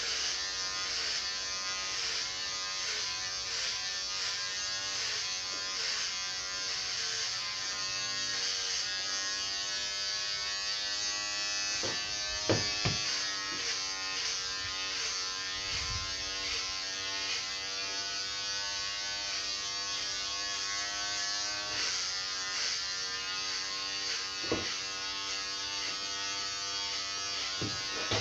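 Electric clipper running steadily, its buzzing hum wavering slightly in pitch as it cuts. A few sharp clicks come around the middle and near the end.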